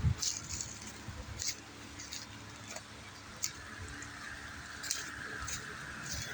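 Footsteps on wet ground with scattered light ticks and patter, a few low thuds, and a faint steady hiss that comes in about four seconds in.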